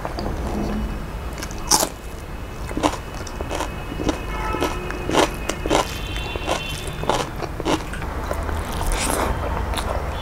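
Close-miked mouth sounds of a person eating: chewing with irregular wet smacks and sharp clicks, the loudest about two seconds in.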